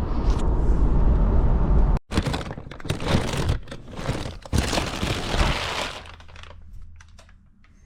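A steady low rumble for about two seconds breaks off abruptly. Irregular crackling and rustling follows, which fades out about four seconds later.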